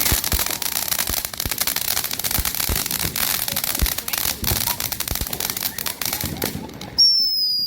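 Consumer fireworks crackling: a dense run of rapid pops and cracks. About seven seconds in the crackle stops abruptly and a loud, steady high whistle takes over.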